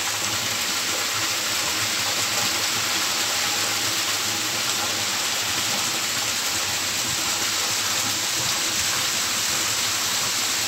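Heavy rain falling steadily, with runoff pouring off a roof edge onto the ground, making an even, unbroken hiss.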